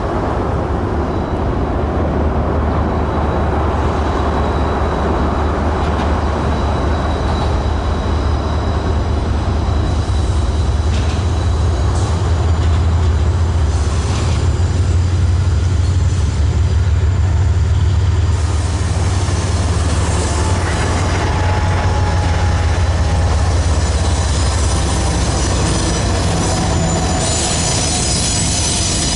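Freight train cars rolling past with a steady low rumble and a thin, high wheel squeal that grows plainer near the end.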